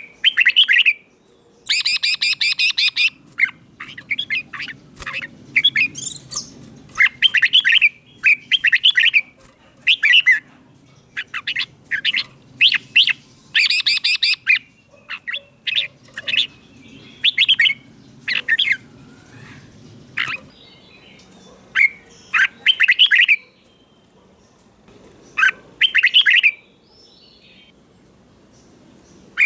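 Red-whiskered bulbul singing a string of short, loud, warbled phrases with brief pauses between them. Two bursts of fast, harsh chattering notes come about two seconds in and again near the middle.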